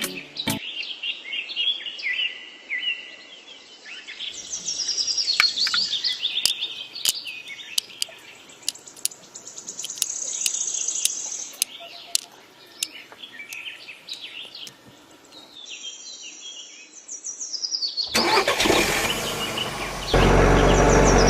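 Birds chirping, a stream of quick falling chirps and trills, with scattered sharp clicks. About eighteen seconds in this gives way to a louder rushing noise and then a steady, loud, low drone.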